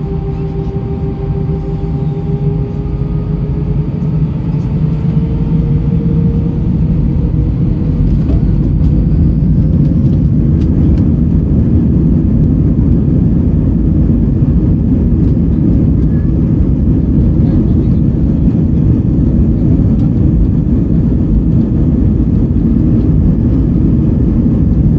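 Cabin noise of an Airbus A320-232 with IAE V2500 engines, heard from a window seat: a deep, steady engine and airflow roar. It grows louder over the first several seconds, then holds steady. A whine in the first few seconds rises slightly in pitch and fades.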